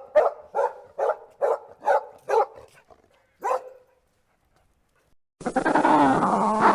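A dog barking in a quick run of about seven barks, roughly two a second, then one more bark after a short pause. About five seconds in, a different pitched sound cuts in abruptly.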